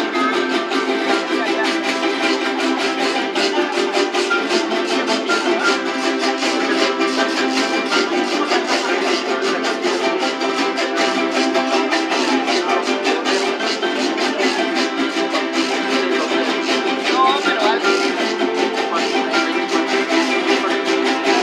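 Jaranas jarochas, the small eight-string guitars of son jarocho, strummed in a steady, fast rhythm.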